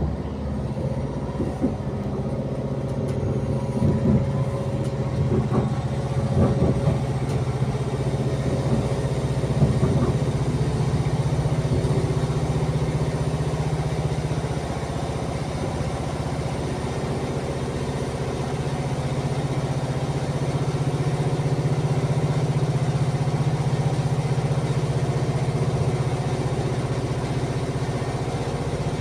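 Passenger train's running noise heard from inside the carriage: a steady low engine-like drone, with a few clicks from the wheels over rail joints in the first ten seconds.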